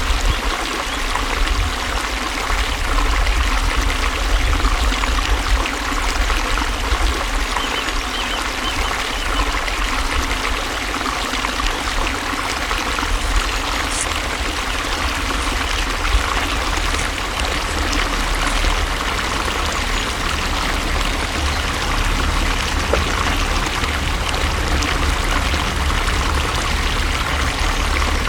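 Flowing water running steadily, an even rush with a low rumble beneath it.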